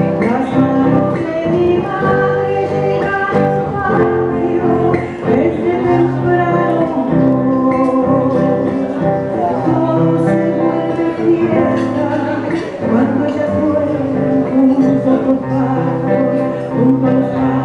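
A song with plucked guitar accompaniment and a woman singing over it.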